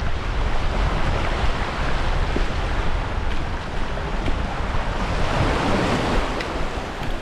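Waves washing on the beach and wind buffeting the microphone: a steady rushing noise with a low rumble, swelling briefly about five and a half seconds in.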